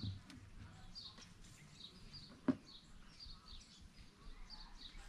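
Birds chirping faintly, short high calls about two a second, with one sharp click about halfway through.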